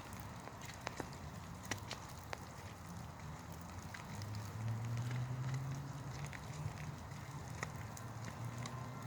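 A faint low motor hum swells about four seconds in and slowly eases off. Scattered light clicks and crackles run throughout.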